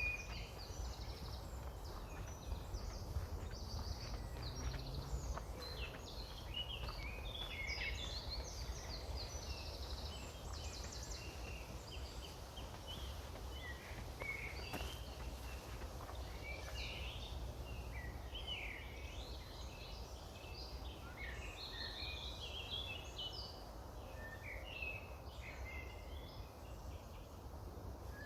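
Several small woodland birds chirping and trilling throughout, many short calls overlapping, over a steady low rumble of wind.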